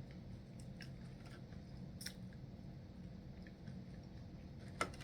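A person chewing nachos, with a few scattered short crunches and a louder one near the end, over a steady low hum.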